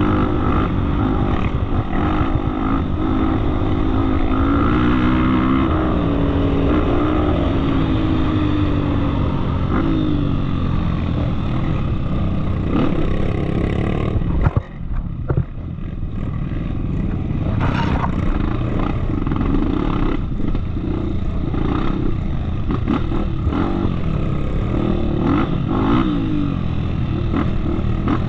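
Off-road motorcycle engine running under changing throttle, its pitch rising and falling, with scattered clattering knocks. About halfway through a sharp knock is followed by a brief drop in the engine sound before it picks up again.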